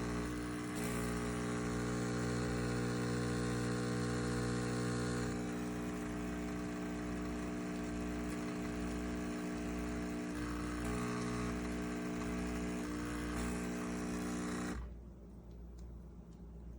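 Espresso machine's pump buzzing steadily while brewing a double shot, cutting off suddenly near the end.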